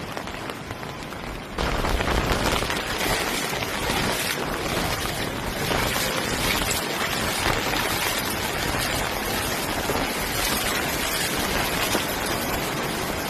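Steady rush of water that jumps louder about a second and a half in, then holds.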